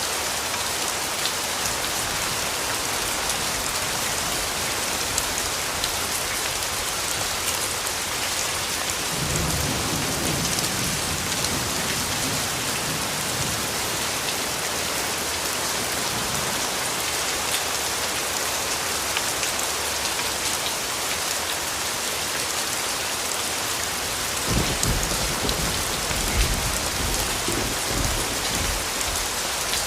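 Steady rain falling, with two low rumbles of distant thunder: one about a third of the way in and a stronger, longer one near the end.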